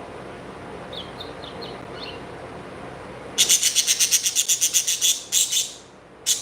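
Pet birds chirping: a few soft chirps about a second in, then a loud, fast run of chirps, about ten a second, followed by a few single calls.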